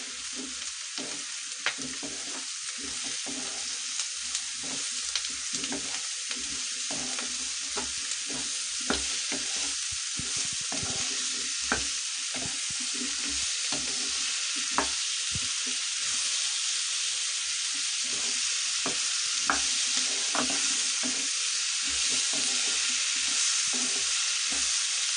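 Chopped chappan kaddu squash and onions sizzling in hot oil in a non-stick kadhai while being stirred with a wooden spatula, with scattered scrapes and taps of the spatula on the pan. The sizzle grows gradually louder.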